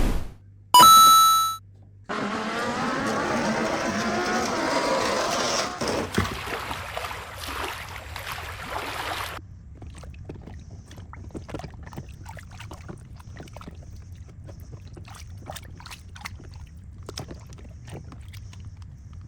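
A thud, then a short bright chime sound effect, then about seven seconds of water being poured that stops suddenly. After it come scattered light clicks and knocks of plastic toy trucks being handled, over a faint low hum.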